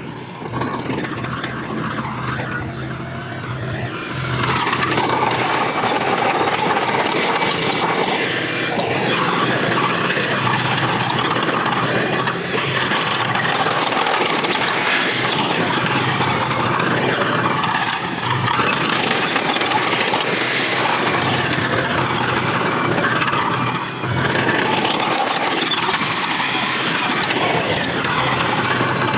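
Heavy earthmoving machinery at work, a bulldozer and dump trucks running their diesel engines. The sound grows louder about four seconds in and then stays steady.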